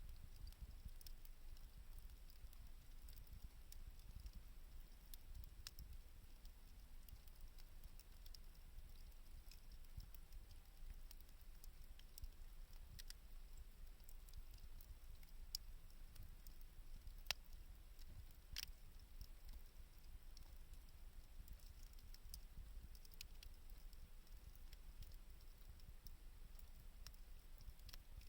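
Faint wood fire crackling: sparse, sharp pops and snaps over a low, steady rumble, with a couple of louder pops in the second half.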